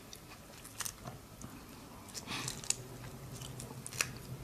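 Close-up eating of shrimp: chewing with a few sharp crackles of shell.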